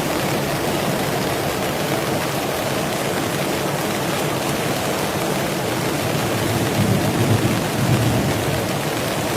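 Heavy rain falling steadily. About seven seconds in, a low rumble rises under the rain for a second or two.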